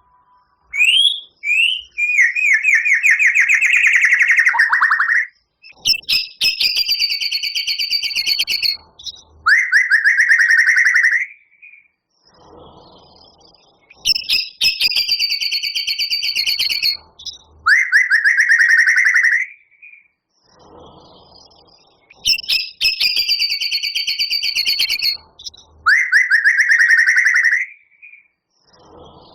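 White-rumped shama (murai batu) singing: fast runs of down-slurred trilling notes alternating with harsh, buzzy rattles, the same sequence of phrases repeating about every eight seconds.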